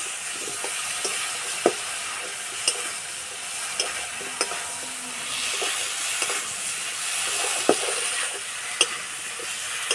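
Potatoes, tomato and ground spices sizzling in a metal kadai with a little water as a metal spatula stirs them, the masala being fried down with the potatoes. The spatula knocks and scrapes against the pan a handful of times over the steady sizzle.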